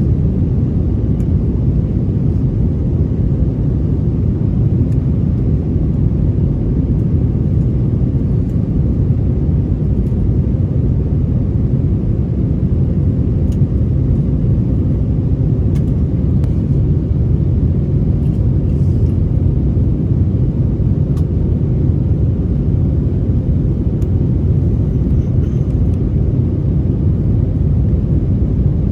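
Steady low rumble of an Airbus A321 in flight, the engines and airflow heard from inside the cabin, with a few faint ticks over it.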